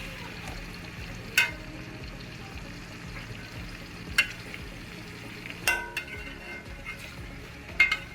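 Chopped onions sizzling in hot oil in a pot, with a steady hiss. A metal spoon stirring them clinks against the pot about five times.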